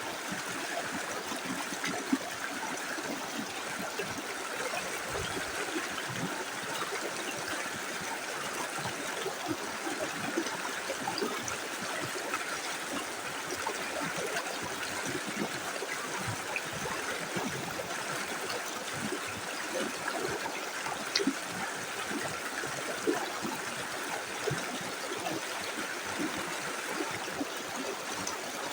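Small river flowing over stones: a steady rush of running water with constant trickling and gurgling, and a few brief louder splashes.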